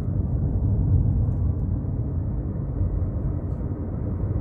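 Car driving on a highway, heard from inside the cabin: a steady low rumble of engine and tyres on the road.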